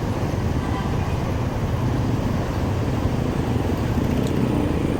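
Steady running noise of a motorcycle on the move: engine and road noise with no sudden events.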